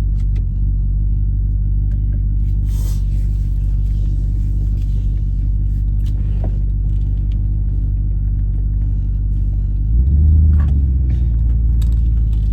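Vehicle engine running steadily at low revs, with a brief rise in revs about ten seconds in.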